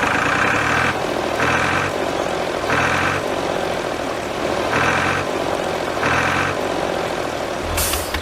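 Vehicle engine running steadily, its sound swelling in five short surges.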